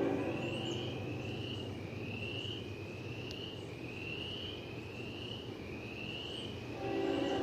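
Insects chirping in a steady series of short rising chirps, about one a second. Near the end a steady low engine drone sets in.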